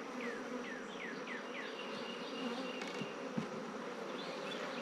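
Honeybees buzzing in a steady hum around an opened hive, the colony stirred up by being opened. A couple of soft knocks about three seconds in, as the wooden super is set down on top.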